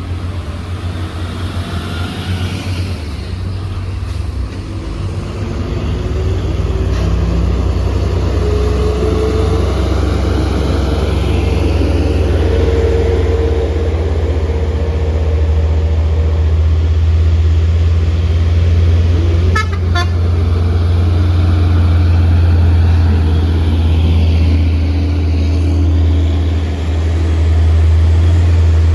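Heavy diesel truck engine labouring up a steep climb, a loud steady low drone that grows louder about five seconds in as the truck draws closer. A brief sharp sound cuts in about two-thirds of the way through.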